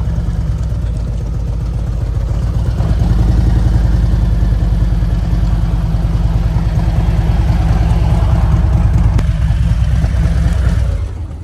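An engine running loudly close by, growing a little louder about three seconds in and dying away near the end.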